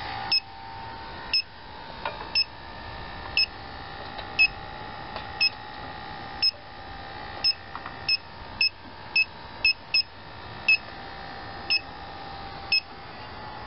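Electronic refrigerant leak detector (Inficon TechMate) beeping at about one short beep a second while it sniffs for R-22. Around two-thirds of the way through, the beeps come faster, about two a second: quick little detections near the service valves, which the technician puts down to a little refrigerant released when the gauge hoses went on rather than a real leak. A steady hum sits underneath.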